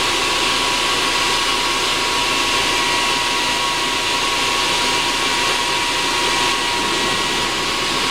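Eberspacher D1L diesel heater's blower fan running steadily at start-up with a constant whine, moving a lot of air before the fuel pump kicks in and the burner lights.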